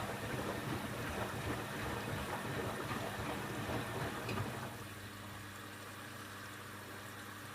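Candy Aquamatic 1000T compact washing machine on an empty 60° descaling wash: the drum churns and rumbles with water inside. About four and a half seconds in, the tumbling stops and only a quieter, steady hum is left.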